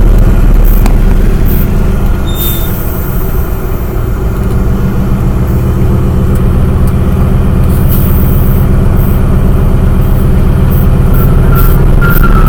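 Antonov An-2 biplane's nine-cylinder radial engine running loud and steady, dipping slightly in level a few seconds in and then coming back up.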